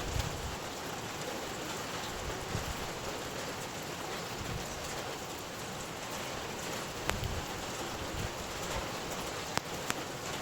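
Steady rain falling as an even hiss, with a few sharp drops landing about two-thirds of the way through and near the end, and brief low gusts of wind.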